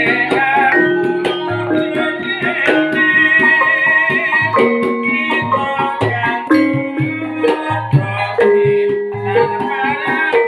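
Javanese gamelan ensemble playing: struck bronze metallophones ringing out a melody over hand-drum strokes, with a wavering high melodic line above.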